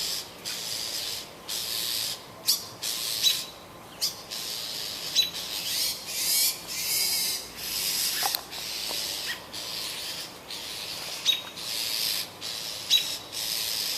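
A bird screaming: harsh, hissing screech calls, repeated about once a second, with short sharp chirps in between.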